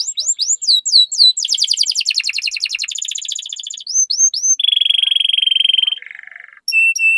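Domestic canary singing a long, varied song. A run of quick upswept notes gives way to a fast rattling trill, then three rising notes, a steady buzzing roll, a shorter lower trill, and three clear whistled notes near the end.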